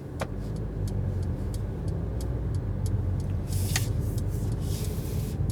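Inside a car driving on a snow-covered road: a steady low rumble of engine and tyres, with faint light ticks about three a second and two short hissing swells about three and a half and four and a half seconds in.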